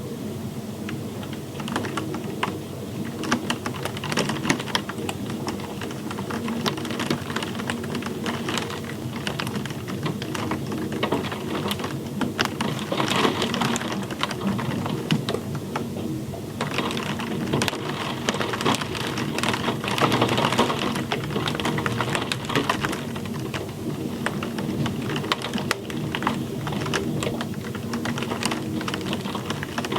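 Steady rain, with dense, irregular drops ticking sharply on a hard surface.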